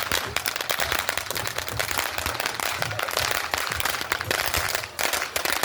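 Fireworks crackling: a rapid, continuous run of small sharp bangs that thins out a little near the end.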